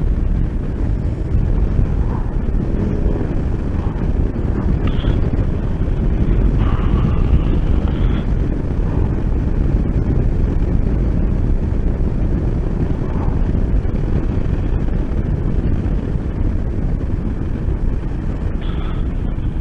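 Steady wind rush and engine noise of a motorcycle on the move, heard through a helmet microphone, with a few faint brief tones now and then.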